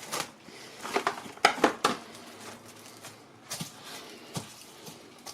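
Cling film crinkling and crackling as it is pulled and stretched over a bowl, in a cluster of short crackles about a second in and a few lighter ones later.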